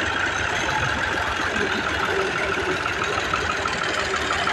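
Diesel tractor engine running steadily at a low, even speed.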